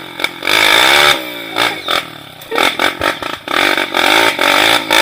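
Trail motorcycle engine revving in repeated bursts, the pitch rising and falling several times as the throttle is opened and closed.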